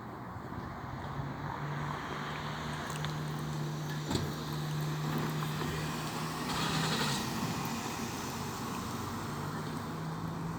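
Steady low hum of a vehicle engine over outdoor background noise, with a sharp tap about four seconds in and a short hiss about seven seconds in.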